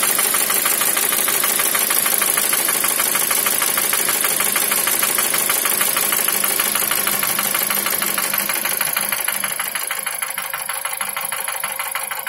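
Car engine idling with a fast, steady knock, the noise the owner is recording as a fault. The sound fades over the last few seconds.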